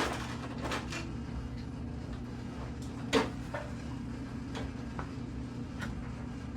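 A handful of separate light clicks and knocks, the loudest about three seconds in, from the plastic interior door trim panel of a 1992 Honda Civic hatchback being handled and fitted back onto the door, over a steady low hum.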